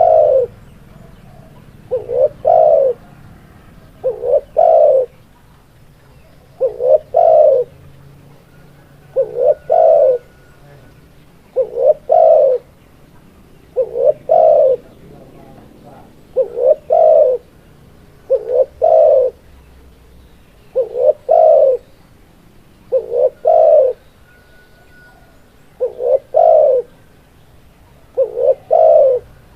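Spotted dove (tekukur) cooing: the same short phrase, a quick note or two and then a longer drawn-out coo, repeated about every two seconds.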